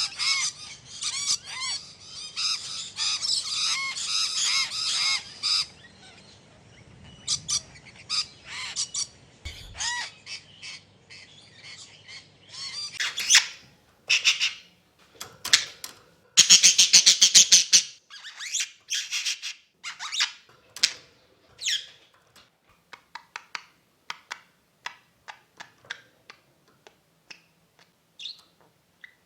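Pet parrots calling. A dense, continuous chatter fills the first five seconds or so, then gives way to separate squawks and chirps. A loud run of rapid, harsh squawks comes a little past the middle, and scattered short chirps follow near the end.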